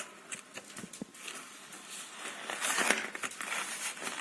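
Cardboard cake box being folded together by hand: the cardboard rustling and creasing as its flaps are bent, with a few light clicks, busier in the second half.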